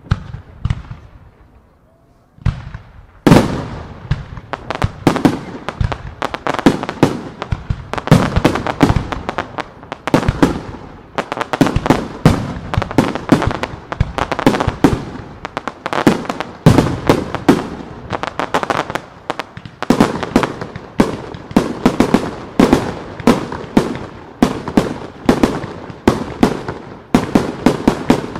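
Aerial fireworks in a star mine barrage: one burst, a short lull, then from about two seconds in a dense run of shells bursting several times a second, each bang fading off before the next.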